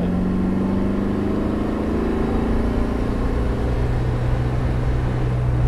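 Austin-Healey 100's four-cylinder engine pulling in gear on the road, its revs climbing gently and then holding steady, over wind and road noise.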